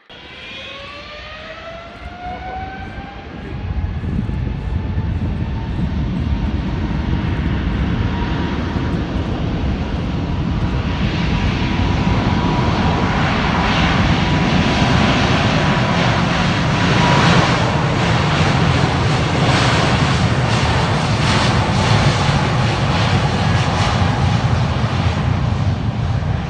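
Wide-body jet airliner's turbofan engines spooling up: a whine rising over about two seconds and then holding steady, under a loud roar that builds a few seconds in and stays, crackling through the second half, typical of takeoff thrust.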